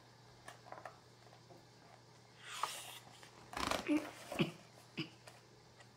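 A steady low hum in a small room. About two and a half seconds in comes a short soft rush like a breath, then a few brief, faint voice and mouth sounds around four seconds, and a small click.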